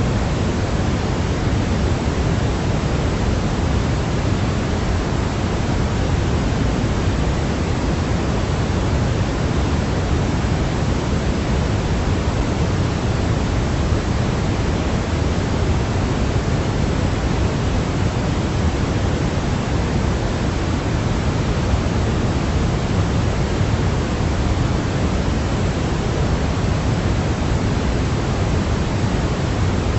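Steady, unchanging white noise of the baby-sleep kind: an even hiss with its weight toward the low end, like pink noise.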